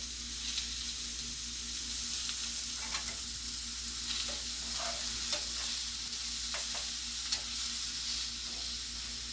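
Sliced mushrooms sizzling in a hot frying pan with the lid off, their moisture boiling out. Scattered short clicks of a utensil against the pan as they are stirred.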